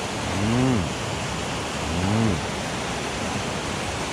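Steady rush of a mountain stream, with a man twice giving a short hummed 'un', each rising then falling in pitch, about a second and a half apart.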